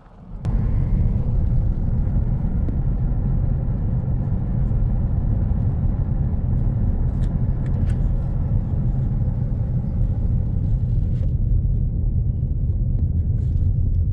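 A car driving, with a steady low engine-and-road rumble. It starts about half a second in, after a brief dip.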